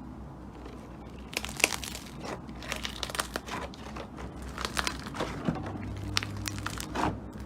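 Slime being squeezed and kneaded by hand, giving irregular crackling and crinkling pops that start about a second in.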